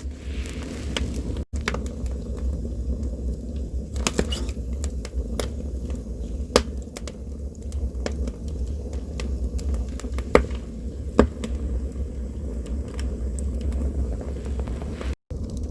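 Campfire burning: wood crackling, with sharp pops every second or two over a steady low rumble. The sound cuts out briefly twice.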